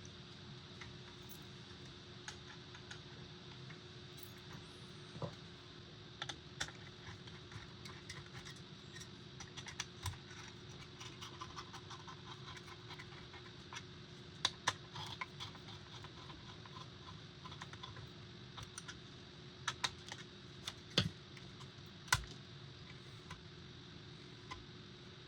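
Scattered light clicks and taps of small PC hardware being handled and fitted while the CPU cooler is installed, a few sharper knocks around the middle and near the end, over a faint steady hum.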